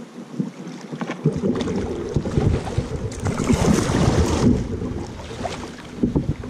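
Kayak on the move on a river: paddle and water splashing and sloshing around the boat, with wind rumbling on the microphone. The splashing grows louder in the middle, then eases off.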